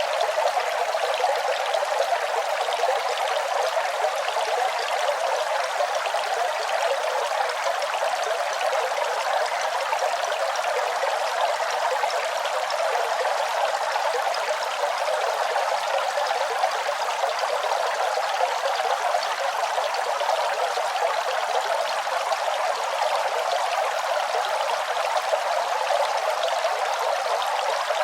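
Running water: a steady, even rush of flowing water without a deep rumble.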